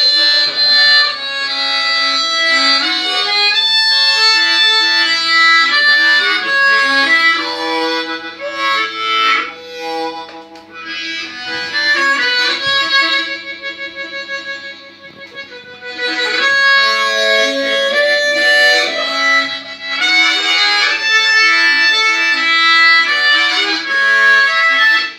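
Blues harmonica playing a chordal tune, with a quieter passage in the middle before it swells again and then stops abruptly near the end.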